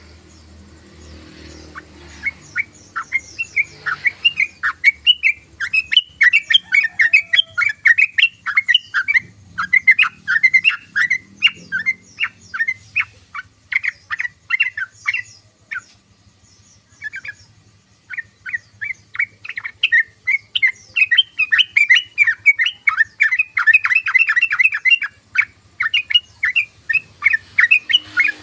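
Yellow-vented bulbul (trucukan) chattering: long runs of quick, short notes, breaking off for a couple of seconds midway and then starting again. A faint low hum sits under the opening seconds before the bird begins.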